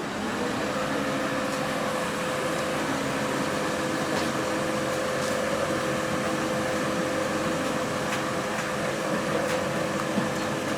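A lifting machine's motor running steadily with a constant whine while it slowly lowers a heavy load, with a few faint clicks.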